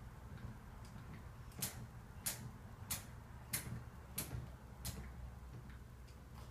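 Six sharp clicks, evenly spaced at about three every two seconds, starting about a second and a half in.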